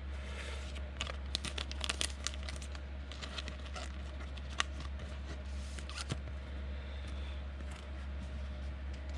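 Trading cards and pack wrappers being handled: rustling, crinkling and tearing with many small clicks, over a steady low hum.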